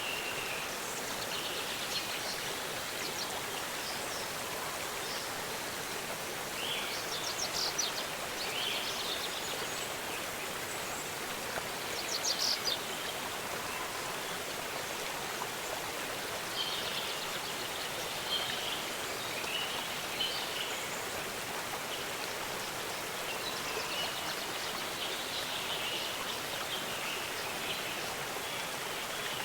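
Steady rush of a waterfall's falling water, with small birds calling and trilling intermittently above it.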